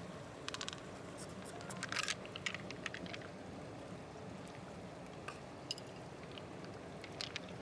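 Wet squishing with scattered sharp clicks and scrapes over a steady low hum.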